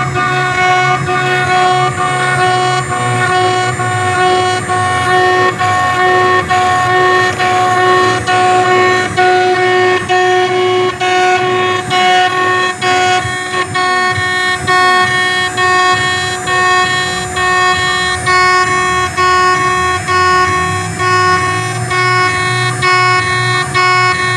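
Homemade CNC machine milling a rifle flash hider: the spindle's steady high-pitched whine, with the level dipping briefly about once a second as the cut goes on.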